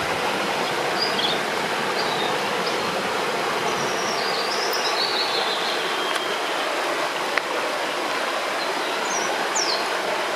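Steady rush of flowing river water, with short high bird chirps breaking in now and then. A single sharp click about seven seconds in.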